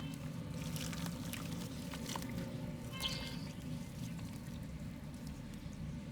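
Soft mud crumbling into water: scattered small crackles, drips and trickles, over a steady low hum.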